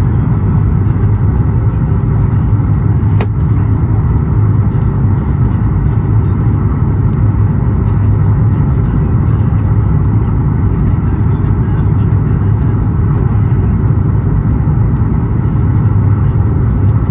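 Steady cabin noise inside a Boeing 737 MAX 8: a constant low rumble of engines and airflow, with one faint click about three seconds in.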